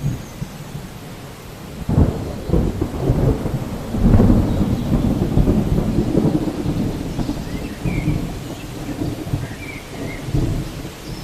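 Steady rain with rolling thunder: a deep rumble breaks in about two seconds in, a heavier one about two seconds later, and it keeps rumbling under the rain.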